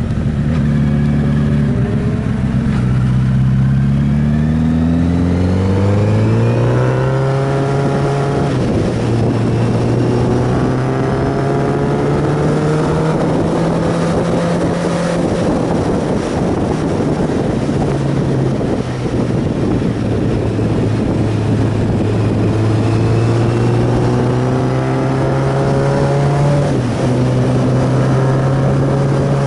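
Inline-four sportbike engine pulling hard through the gears, its pitch rising and then dropping at an upshift about eight seconds in, then holding a steady cruise. Near the end it climbs again and drops at another shift. Wind rushes over the microphone throughout.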